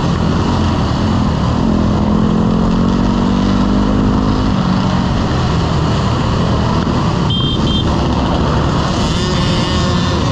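Motorcycle engine running while riding, mixed with heavy wind rush; its note rises a little between about two and four seconds in. A short high double beep sounds about seven seconds in.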